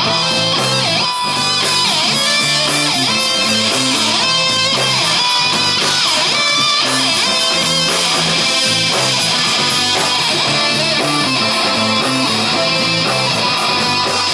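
Instrumental break of a rock song: guitars strumming and playing a lead line that bends in pitch, over bass and a steady drum beat, with no singing.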